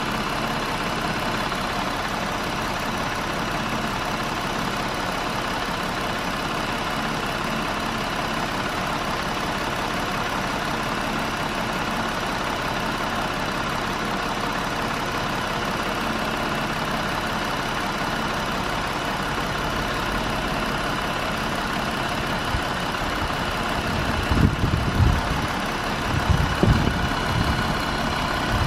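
A 2020 Jeep Wrangler's engine running steadily after a restart, the noise its owner says makes it sound like a jackhammer. A few low thumps come near the end.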